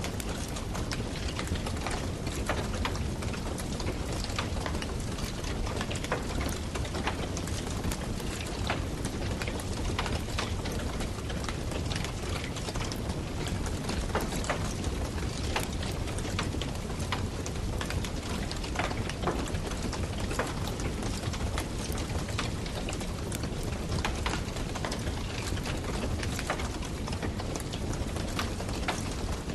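Wood campfire burning, with frequent sharp crackles and pops over a steady low rumble of flame.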